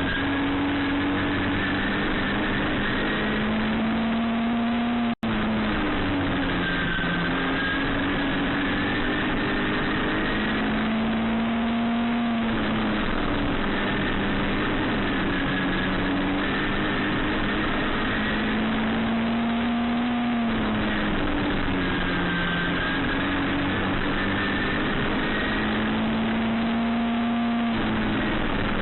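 Midget race car engine running hard, its pitch climbing over several seconds and then dropping back, over and over, every four to six seconds.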